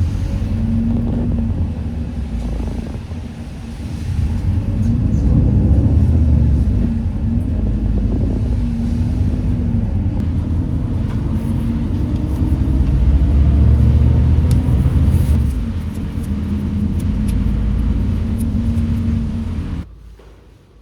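Loud, low rumble of a running vehicle with a wavering hum, swelling and easing twice, then cut off suddenly near the end.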